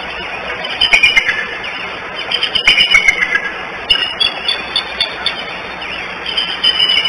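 Birds calling with high chirps that slide downward, in two short runs about a second in and about three seconds in, over a steady outdoor hiss.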